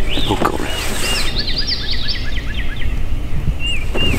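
Songbirds singing: clear whistled, down-slurred notes from several birds, with a quick run of about eight repeated notes in the middle. A steady low rumble runs underneath.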